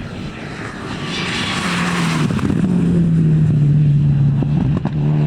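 A four-wheel-drive rally car approaching at speed. Its engine grows louder and holds a steady drone that sinks slightly in pitch, with a rushing noise as it nears and a few sharp cracks near the end.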